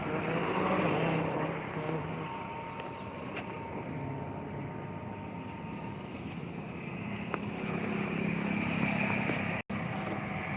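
Steady motor-vehicle engine and traffic noise, a low hum with no clear events, with a momentary dropout near the end.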